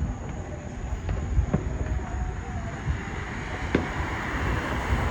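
A vehicle passing on the street, its tyre hiss swelling over the last couple of seconds above a steady low rumble.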